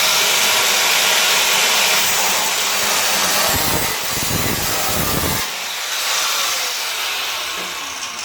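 Power tool fitted with a cutting disc cutting through the steel scuttle panel of a car body, a loud grinding hiss over a steady motor whine. Near the end it comes off the cut and the whine falls as the disc spins down.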